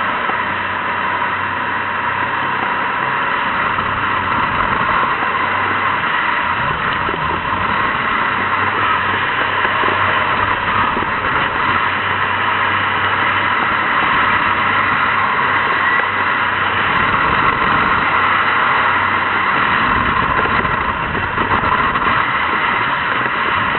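Jet boat running at speed: a loud, steady engine and water-jet noise with no pauses.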